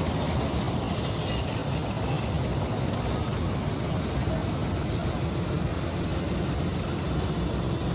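Steady vehicle and road noise: a constant low rumble with no separate events.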